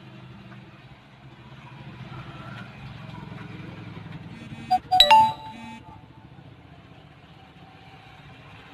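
Steady hum of street traffic, with a short, loud two-part electronic-sounding tone about five seconds in: a brief blip followed by a longer note lasting under a second.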